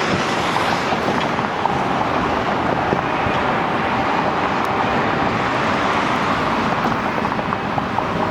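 Steady rumble of road traffic with wind buffeting the microphone, and a faint engine hum underneath.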